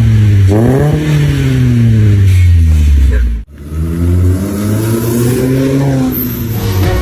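Proton Persona's four-cylinder engine revved through an aftermarket NDK full-system exhaust: two rev blips, each climbing quickly and then falling away slowly, with an abrupt break between them about halfway through.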